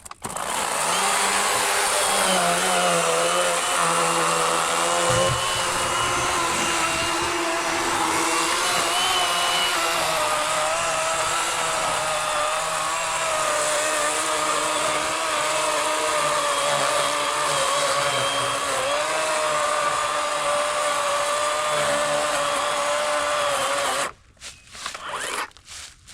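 Worx 40-volt electric chainsaw with an 18-inch Oregon bar cutting through a fallen log, a steady motor and chain whine whose pitch sags and wavers a little under load. It runs for about 24 seconds, then stops abruptly.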